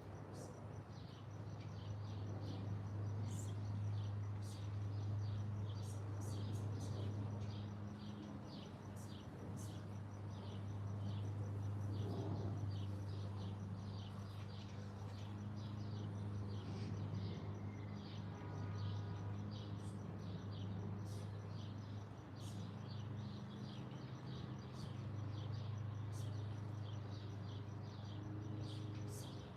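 Small birds chirping, a dense run of short high chirps repeating all the way through, over a steady low hum.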